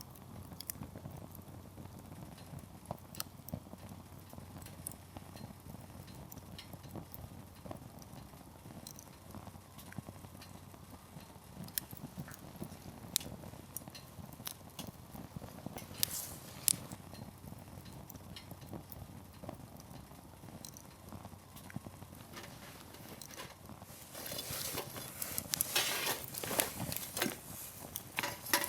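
Firewood burning in an open campfire, with a low steady rush of flame and scattered sharp crackles and pops. The crackling grows denser and louder near the end.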